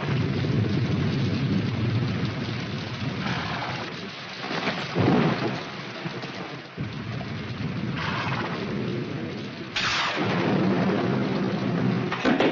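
Storm sound effects: steady heavy rain with rolling thunder that swells a few times, and a sudden loud crash about ten seconds in.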